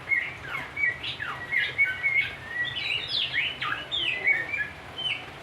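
A samyong songbird singing a fast, varied run of chirps and short down-sliding whistles, several notes a second without a break.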